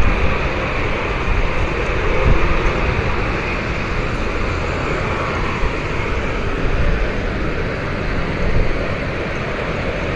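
A steady, distant rumbling roar like a jet plane overhead, which the listener takes for an airplane but cannot see.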